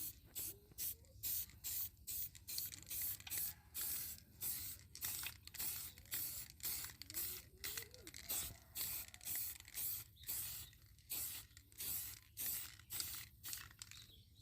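Steel golok blade drawn back and forth over a sharpening stone in quick, even scraping strokes, about two a second.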